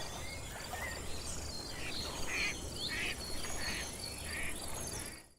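Outdoor nature ambience: small birds chirping in short whistled notes over a steady, fast-pulsing high insect trill.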